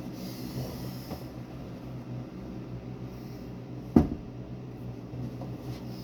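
A single sharp knock about four seconds in, over a steady low hum.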